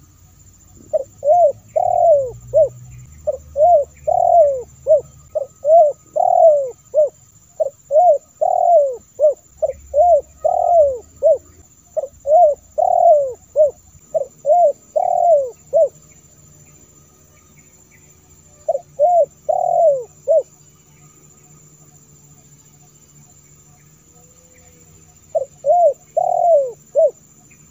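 Spotted dove (tekukur) cooing in bouts of short, arched coos. One long run lasts about fifteen seconds, followed by two short bouts, one after a pause in the middle and one near the end.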